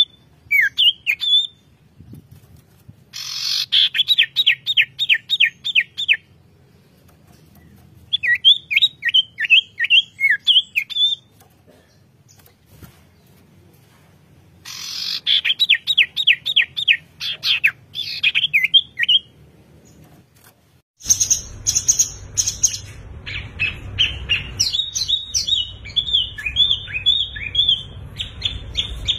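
Songbirds singing: phrases of rapid, evenly repeated high chirping notes, each lasting two to three seconds, with pauses between. About two-thirds of the way through, the sound changes abruptly to a different, denser song over a low background rumble.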